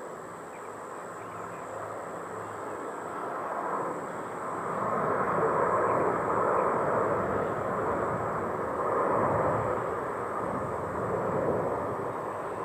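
Jet airliner engines heard from the ground: a steady rushing noise that grows louder about five seconds in, then swells and fades a little.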